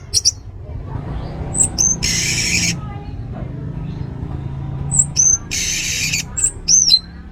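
Orange-headed thrush singing: short high whistled slurs mixed with two longer, harsh, scratchy notes, over a steady low hum.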